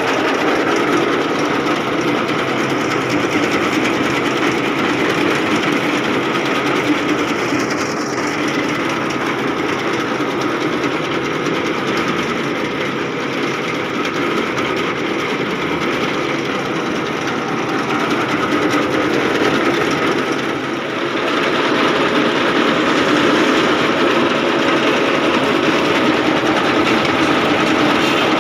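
Tractor engine running steadily under a continuous mechanical noise, dipping briefly about two-thirds of the way through.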